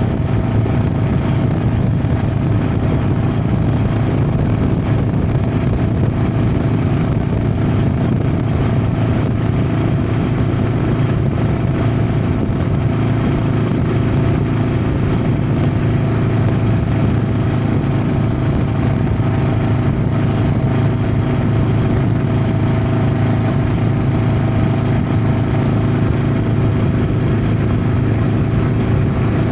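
Harley-Davidson Sportster's V-twin engine running steadily as the motorcycle rides, holding the same revs throughout.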